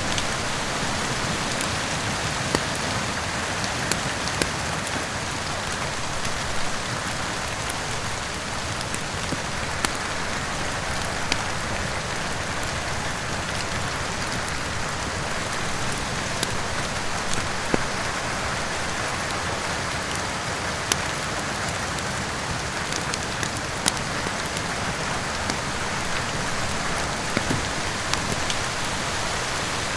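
Steady rain mixed with a wood fire, with sharp crackles and pops every second or two.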